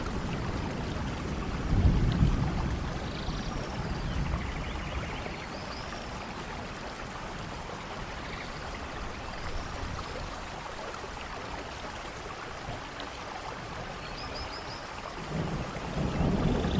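Steady heavy rain with rolling thunder: one low rumble swells about two seconds in, and another builds near the end.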